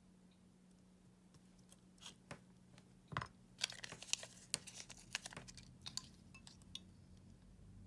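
Small handling noises during battery-pack work: scattered sharp clicks, crackles and crinkling, busiest from about three to six seconds in, over a faint steady hum.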